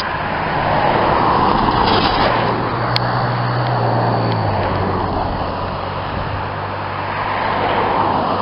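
Road traffic: a motor vehicle's engine hum and tyre noise swell and fade, then a second swell comes near the end. A single sharp click sounds about three seconds in.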